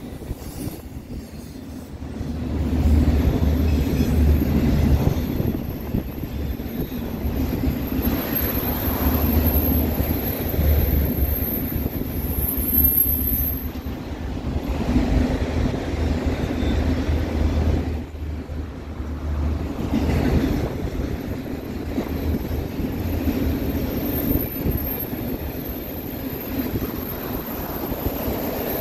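Freight train of autorack cars rolling past: steady rumble and clatter of steel wheels on rail, swelling and easing in loudness as the cars go by.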